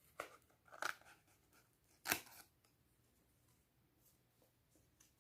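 Three short snipping clicks of scissors on a cardboard toilet-paper roll, the third the loudest, then quiet.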